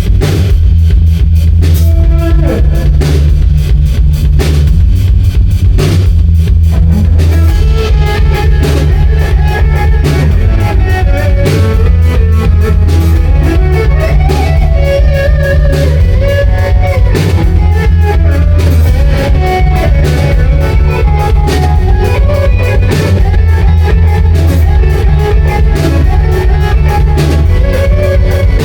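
Live rock band playing at full volume: electric guitar, a heavy bass line and a drum kit keeping a steady beat.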